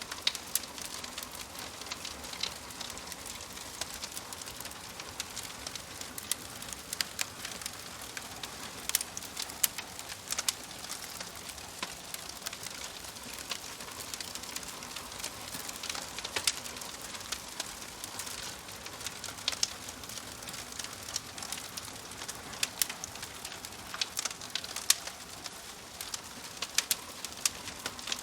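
Wood fire crackling in a wood-burning stove: irregular sharp pops and snaps over a steady soft hiss.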